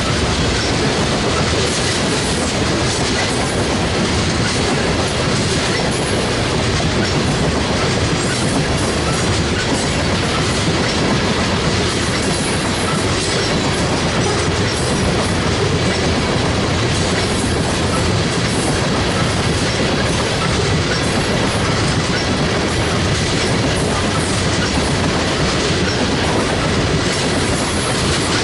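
Freight train cars rolling steadily past close by, steel wheels clacking over the rail joints.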